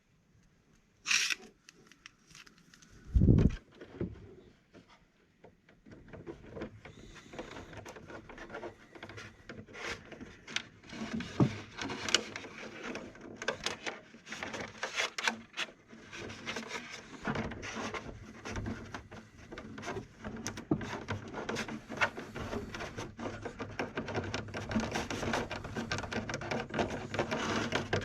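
Small irregular clicks and rubbing from hands working on a hard plastic RC car body and small light parts, with a single low knock about three seconds in.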